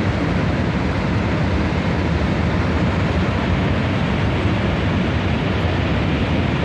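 A river in flood rushing: a loud, steady, even noise, heaviest in the low end, that never lets up.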